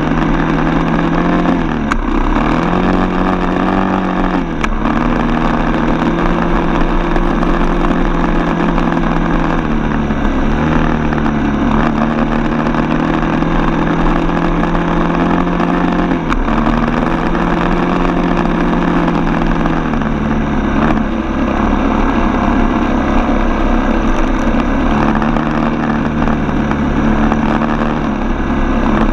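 Single-cylinder four-stroke dirt bike engine running steadily while riding, its revs dipping briefly and picking back up several times as the throttle is eased and reopened.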